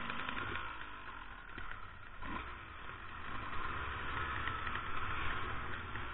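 Two-stroke enduro dirt bike engine running at low revs on a slow forest trail ride, easing off about two seconds in and picking up again.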